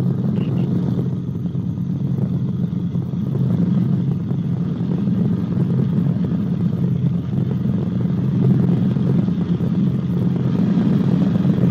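Guimbal Cabri G2 helicopter in cruise flight: the steady drone of its piston engine and rotors, heard inside the cabin through a shirt microphone.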